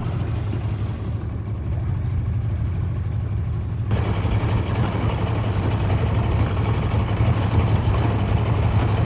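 Motorboat engine running steadily underway, a low hum under the hiss of water and wind rushing past. About four seconds in the hiss gets louder.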